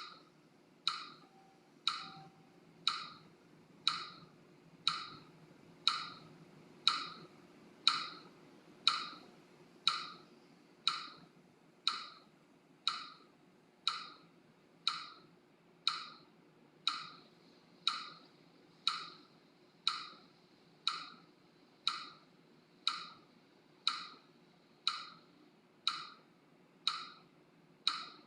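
Metronome clicking steadily about once a second, evenly spaced and alike, keeping time for paced breathing.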